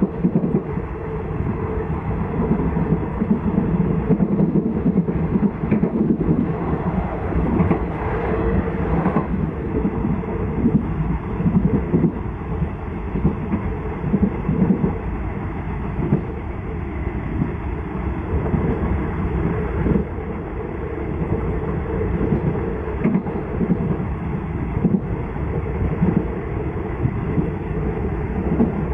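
State Railway of Thailand rapid passenger train running at speed: a steady rumble, with the wheels clicking irregularly over the rail joints.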